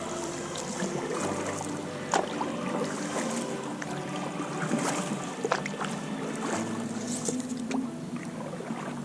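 Water lapping and slapping against the hull of a small boat, with scattered small knocks and clicks.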